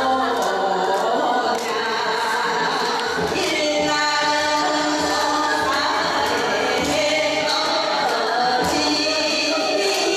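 Korean folk song (minyo) sung by voices over instrumental accompaniment, with regular percussion strikes.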